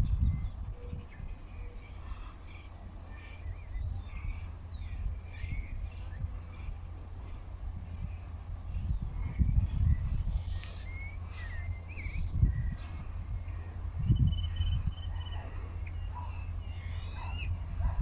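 Birds chirping, with many short high calls throughout, over an uneven low rumble.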